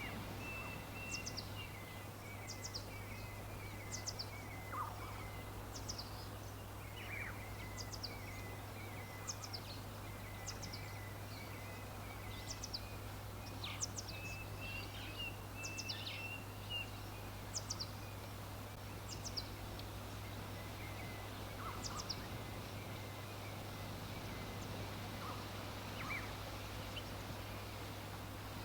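Songbirds chirping: short, high, down-slurred chirps repeat about once a second, with a softer warbling trill now and then. Underneath are a steady low hum and a background hiss.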